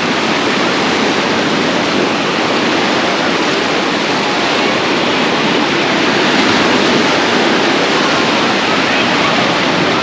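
Loud, steady rushing of water, an even hiss that does not rise or fall.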